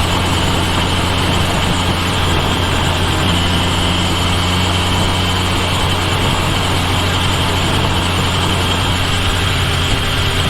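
Kawasaki Ninja H2 SX's supercharged inline-four engine running at a steady, unchanging pitch, picked up close to the bike's rear.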